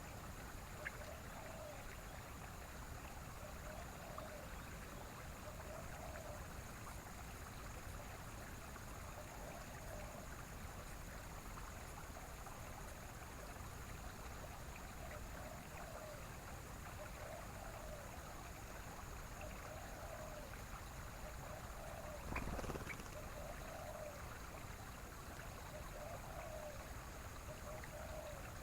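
Outdoor nature ambience: a steady rushing hiss like running water, with a faint low call repeating about every second and a half and a thin steady high whine over it. A brief thump about three-quarters of the way through.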